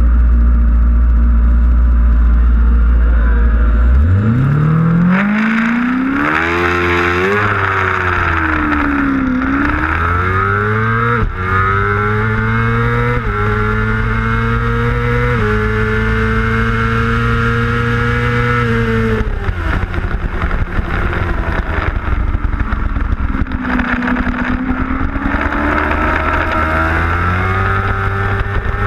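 600cc race motorcycle engine heard onboard. It runs low and steady for about four seconds, then revs up hard and pulls through several quick upshifts, each a short dip in pitch. It holds high revs, falls away about two-thirds through as the bike slows, then accelerates up through the gears again near the end, with wind rush over the microphone.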